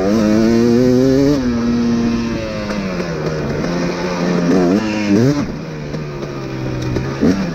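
Dirt bike engine under riding throttle: the revs climb sharply at the start and hold, drop about a second and a half in, then rise in quick bursts about five seconds in and again near the end.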